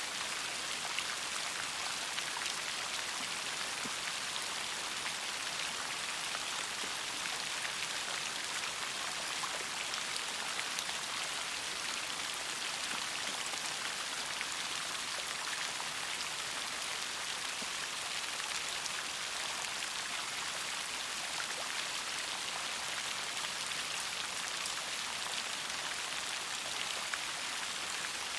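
Steady rainfall, many individual drops ticking on a surface over an even hiss.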